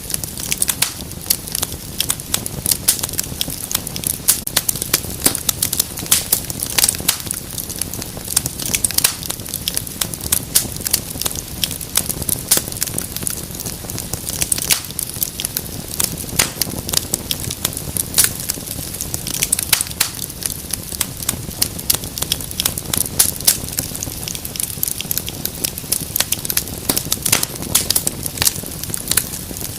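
Wood fire crackling steadily, with dense, irregular sharp pops and snaps over a low hiss.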